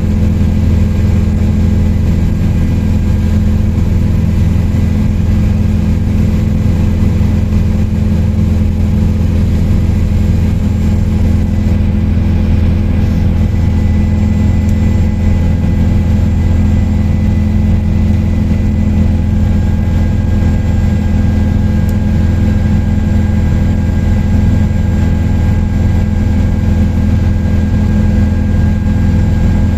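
Helicopter in cruise flight: a loud, steady low drone with several constant tones that holds unchanged.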